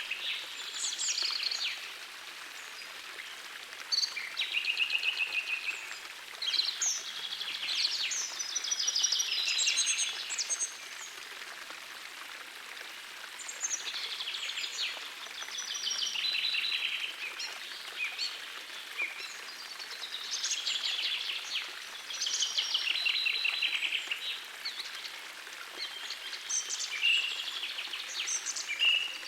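Songbirds singing in phrases of fast repeated notes every few seconds, over the steady rush of a gentle forest stream.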